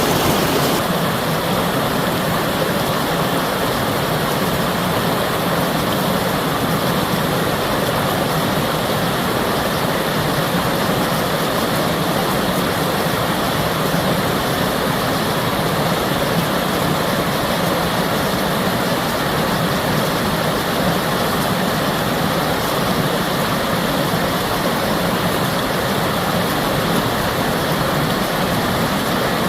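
Steady rush of flowing water, an even continuous wash of noise with no breaks, with a slight change in its hiss about a second in.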